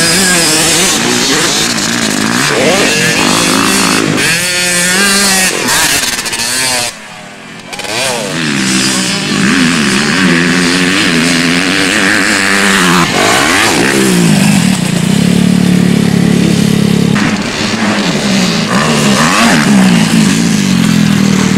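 Motocross motorcycle engines revving up and falling back as the bikes ride the track, several engines at different pitches overlapping. The sound briefly drops away about seven seconds in, then picks up again.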